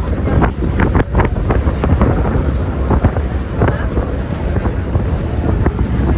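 Wind buffeting the microphone in irregular gusts over a steady low rumble of a ferry's engine and the water.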